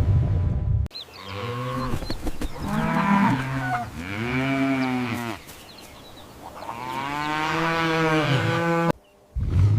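Cow mooing: three moos, then one long drawn-out moo that cuts off abruptly near the end. A low rumbling noise from the previous clip stops suddenly about a second in.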